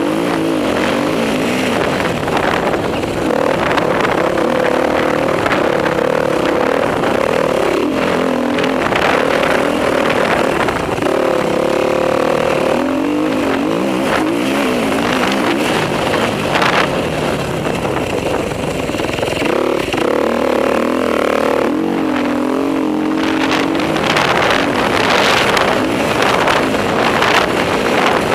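Enduro motorcycle engine running hard, its revs rising and falling repeatedly as it rides a motocross track, over a steady rushing noise.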